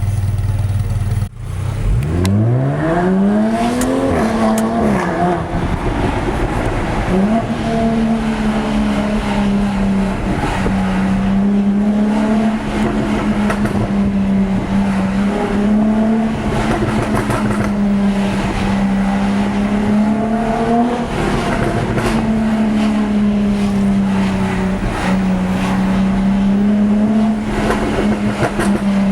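Jaguar F-Type S's supercharged 3.0-litre V6 engine running, then accelerating about two seconds in with a steeply rising pitch. After a short drop it holds a nearly steady, slightly wavering pitch for the rest of the time.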